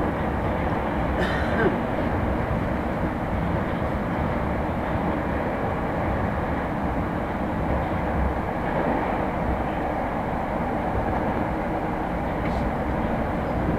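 Moscow Metro train running, a steady rumble of wheels on the rails with one short knock about one and a half seconds in.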